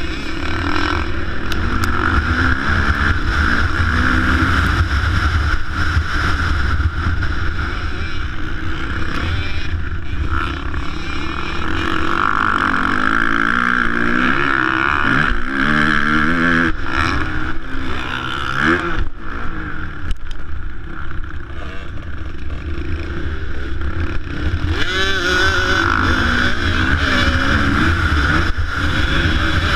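Motocross bike engines revving and running, their pitch rising and falling again and again as they accelerate and back off, over a steady low rumble.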